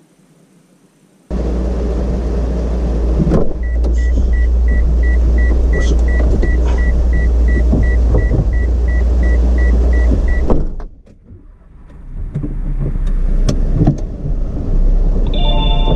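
Loud low rumble of a vehicle, starting suddenly about a second in, with a short electronic warning beep repeating about twice a second for several seconds. The rumble cuts out suddenly, then builds back up.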